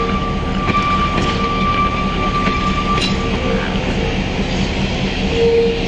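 Electric trolley car running on the track: a steady hum under a high, even tone that stops about three and a half seconds in, with a single click about three seconds in.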